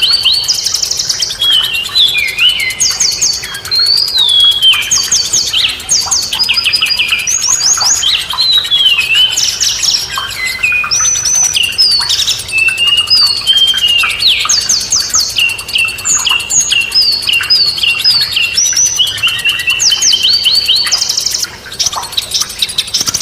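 Songbirds singing continuously in a dense, overlapping mix of quick chirps, fast trills and short falling whistles.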